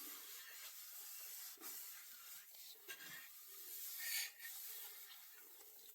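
Faint irregular rubbing strokes on an ash axe handle, hand sanding or wiping the wood, with one louder stroke about four seconds in.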